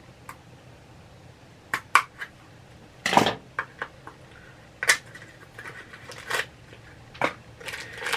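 A small mystery pin box being opened and its packaging handled: scattered clicks and taps, a short rustling crinkle about three seconds in, and more rustling near the end.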